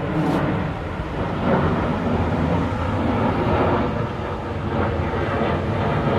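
Jet airliner's engines making a low, steady rumble as the aircraft passes.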